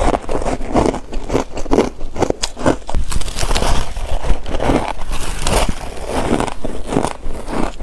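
Close-miked bites into layered chunks of freezer frost, crisp crunching and crackling repeated a few times a second as the frost breaks between the teeth.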